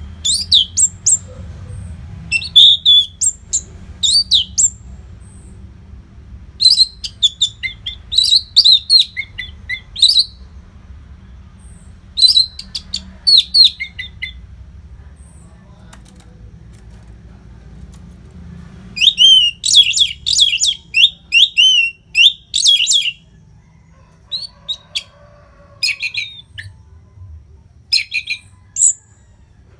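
Orange-headed thrush singing in repeated bouts of quick, high, varied whistled phrases, with short pauses between bouts.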